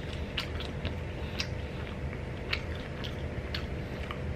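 A person chewing a mouthful of roast chicken breast: irregular soft wet mouth clicks over a steady low hum.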